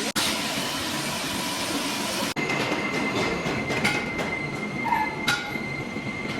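Metalworking machinery noise: a steady hiss, then, after an abrupt cut, a steady high-pitched metallic whine with a few sharp metal clinks.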